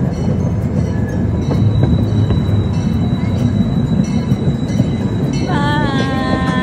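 Small zoo train car riding along its narrow-gauge track: a steady low rumble with scattered wheel clicks and rattles. Near the end a short pitched sound with several tones comes in over it.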